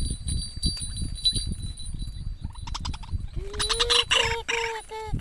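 High, steady ringing tones in the first half, then from about three seconds in a bird calling in a run of short repeated notes, with a low rumble throughout. The call fits a waterhen.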